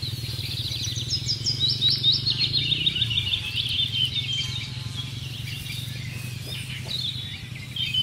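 Songbirds singing in fast runs of high chirping notes that step down in pitch over the first few seconds, followed by scattered chirps and short phrases. A steady low hum sits underneath.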